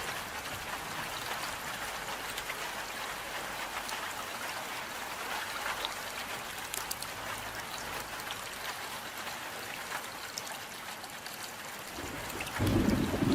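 Steady rain falling: an even hiss with scattered small drop ticks. Near the end a louder low rumble comes in on top of it.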